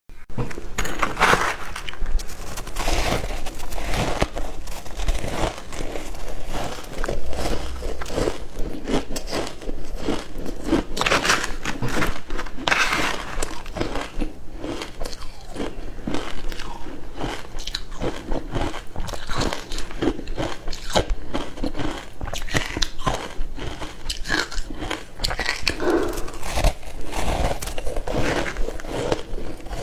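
Frozen matcha ice being bitten and chewed close up: continuous crackling crunches with louder bites every second or two.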